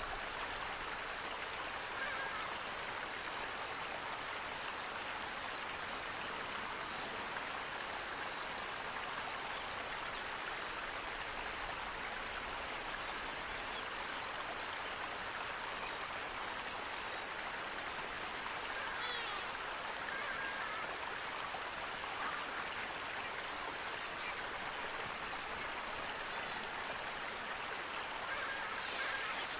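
Flowing water rushing steadily, with a few faint high chirps from birds about two seconds in, around the middle and near the end.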